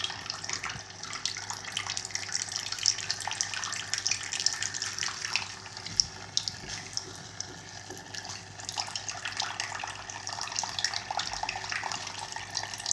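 Water falling and splashing steadily in a small garden fountain, poured from a hose-fed bird sculpture into the basin below, with a faint steady hum underneath.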